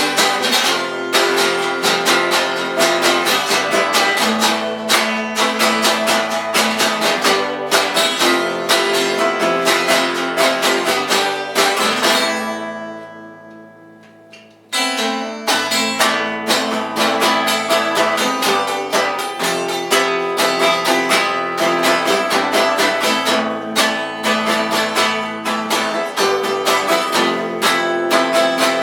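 A band's song driven by strummed guitars with a steady beat. About twelve seconds in the music stops and rings down for a couple of seconds, then the full band comes straight back in.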